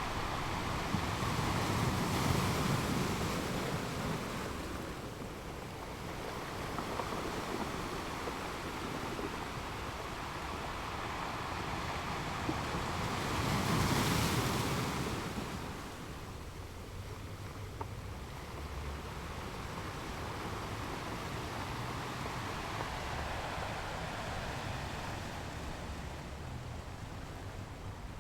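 Ocean surf: a steady rushing of waves that swells louder about two seconds in and again near the middle, then eases off.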